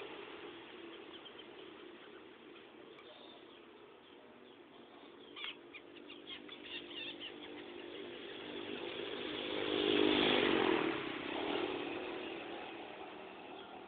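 A few short bird chirps about five to seven seconds in, then a motor vehicle, likely a motorcycle, that grows louder to a peak around ten seconds and fades away.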